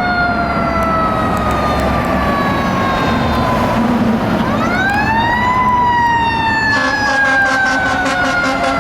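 Fire engine's Powercall siren sounding a slow wail: the pitch glides down, sweeps back up about halfway through, then falls slowly again. About two-thirds of the way in, a second, lower steady tone with a fast, even pulsing joins the wail.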